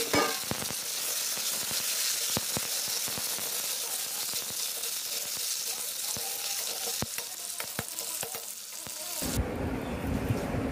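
Potato chunks frying in hot oil in a kadai: a steady sizzling hiss with scattered pops and spatters. About nine seconds in, the sizzle cuts off abruptly and a low rumble takes over.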